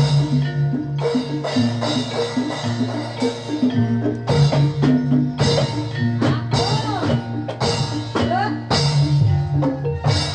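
Jathilan dance music played live: drums and tuned gamelan-style percussion repeat short melodic phrases in a steady rhythm over low sustained tones.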